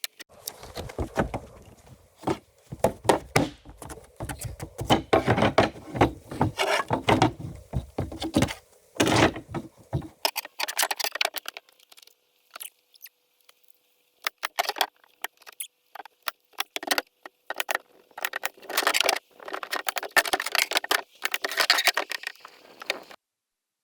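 Irregular knocks, thuds and clatter of construction work. Heavier thuds come in the first half, then sharper, scattered clicks and knocks, stopping abruptly just before the end.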